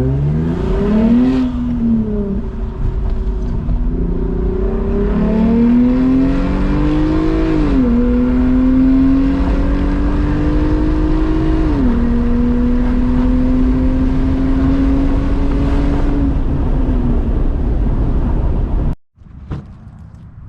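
Lexus IS 350's V6 exhaust, F Sport exhaust with the resonator deleted, pulling through the gears: the engine note climbs, drops back at each shift and holds steady for a few seconds at a time. It cuts off suddenly near the end to a much quieter background.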